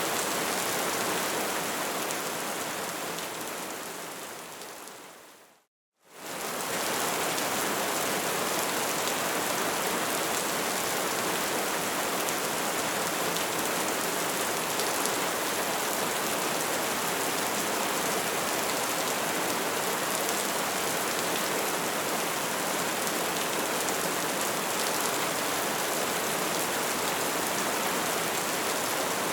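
Crackling fire: a steady hiss of dense small crackles and pops. It fades out to a moment of silence about six seconds in, then fades back up and continues evenly.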